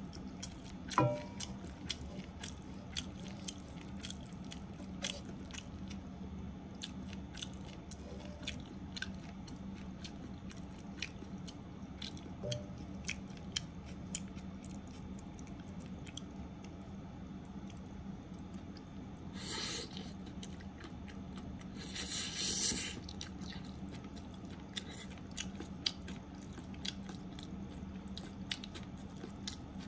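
Close-miked chewing of a mouthful of stir-fried spaghetti with egg and potato chips: many small wet mouth clicks and soft crunches. Two brief louder hissing noises come about two-thirds of the way through.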